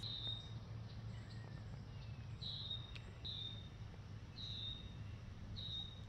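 A bird calling over and over: five short, high notes that each slide downward, about a second apart, against a faint steady low hum.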